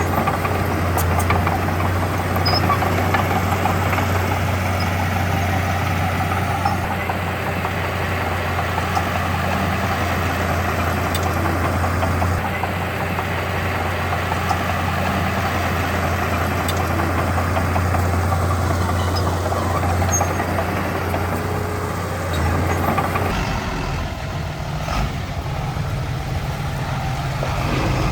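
Heavy diesel machinery engine running steadily, with a deep constant hum and mechanical clatter. Its note changes near the end.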